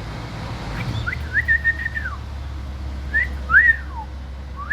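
A person whistling at a bird: a rising note held for about a second and then sliding down, followed by a few shorter up-and-down notes.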